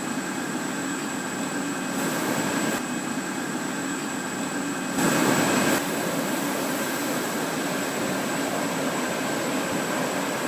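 Steady aircraft engine and airflow noise: a dense rushing with a constant high whine, briefly louder about five seconds in.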